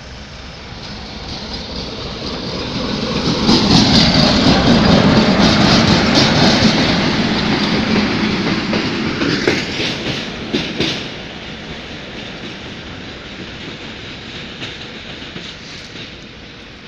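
Diesel train passing close by. Engine and wheel noise builds over the first few seconds and is loudest about four to seven seconds in. A quick run of sharp wheel clacks comes around ten seconds in, then the noise settles lower as the train moves away.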